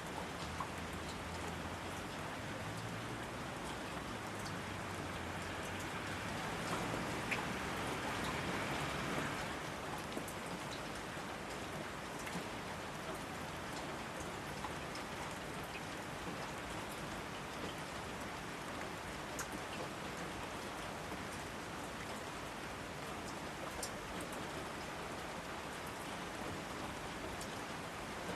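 Steady rain falling, with scattered individual drops ticking. The rain swells louder for a few seconds about seven seconds in, then settles back.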